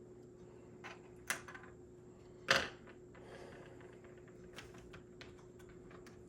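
A few separate small clicks and taps of hand tools against the tiny plastic and metal parts of an HO slot car chassis during the fitting of a rear axle assembly. The loudest click comes about two and a half seconds in.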